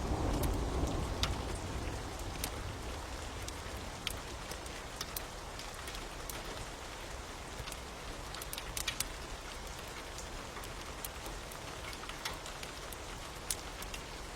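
Steady rain with scattered sharp crackles from a fire, while a low rumble of thunder fades out in the first couple of seconds.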